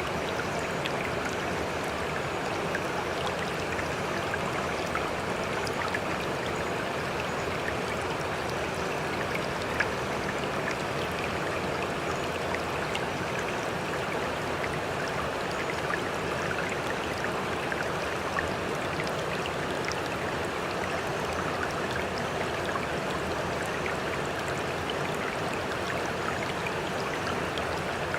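Sea water trickling and lapping steadily, with small scattered drips and splashes and no separate waves rising and falling.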